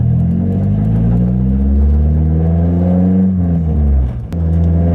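Straight-piped Nissan 240SX (S13) exhaust, obnoxiously loud, as the car accelerates. The engine note climbs for about three seconds, drops back, breaks off briefly just after four seconds in, and then pulls again, as in a gear change.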